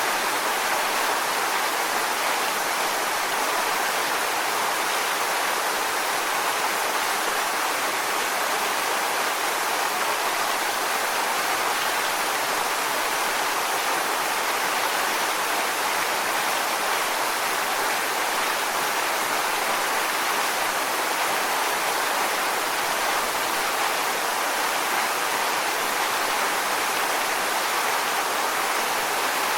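Waterfall: water pouring steadily over rocks in an even, unbroken rush.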